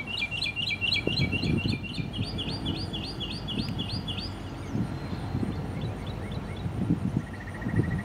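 A songbird singing a fast run of repeated chirping notes, about four a second, through the first half, then a quick even trill near the end. Beneath it runs the low rumble of an approaching freight train's diesel locomotives.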